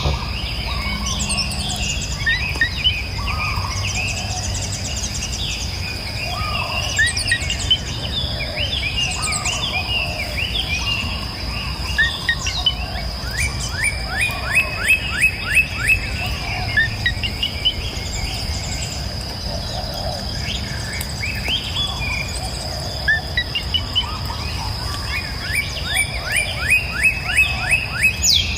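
Several songbirds singing and calling together. One bird repeats runs of quick, falling notes at about four a second, over a steady high insect drone and the low rush of river water.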